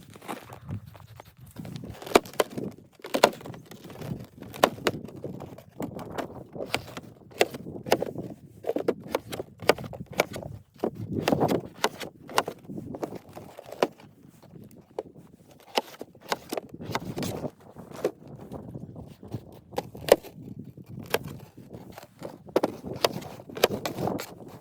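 A long run of irregular sharp knocks and clicks, at times several a second, with rustling between them.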